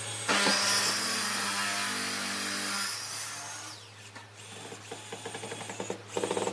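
A handheld power tool runs for a couple of seconds with a steady motor whine, then is switched off and winds down. Light clicks and knocks of handling follow.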